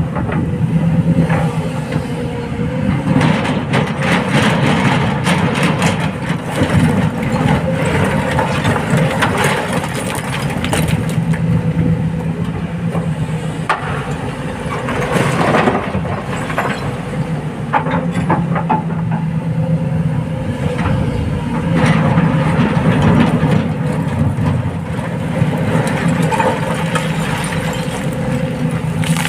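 Heavy diesel excavator engine working under load, its steady drone swelling and easing every few seconds, with scattered clatter and a louder burst of noise about halfway through.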